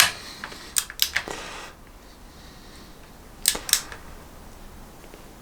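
Sharp clicks from a Teng click-type torque wrench and its ratchet working small screws: three close together about a second in, then two more about three and a half seconds in.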